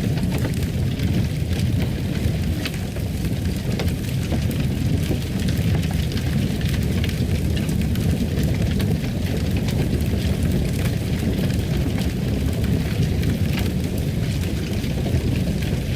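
Wood fire crackling: a steady low rumble with frequent small pops and snaps.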